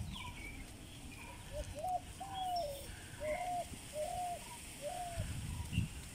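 A bird calling a run of about six short, arched notes, one after another, with fainter high chirps from other small birds. Low wind rumble on the microphone underneath.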